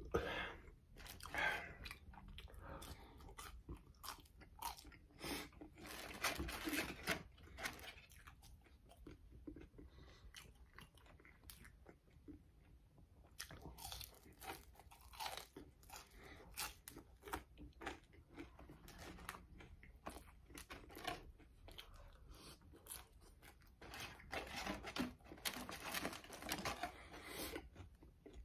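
Close-up mouth sounds of someone eating fries: chewing and crunching in irregular bursts of crackly bites, with quieter chewing between them.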